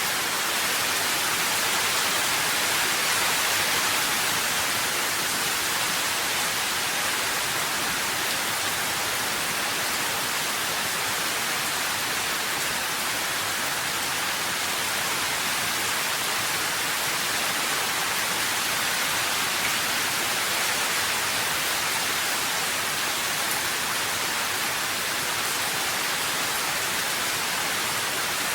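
Steady rain falling, an even hiss with no distinct drops, thunder or other sounds.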